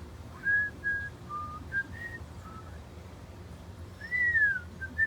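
A person whistling a few short clear notes at different pitches, with a longer note that rises and falls about four seconds in.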